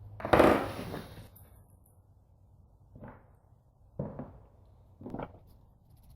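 Workshop handling noises: a loud clatter lasting about a second, starting just after the start, then three single knocks about a second apart.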